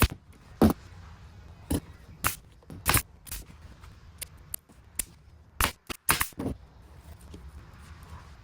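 Irregular sharp knocks and clicks from interior panels and hardware being handled and fitted into a boat.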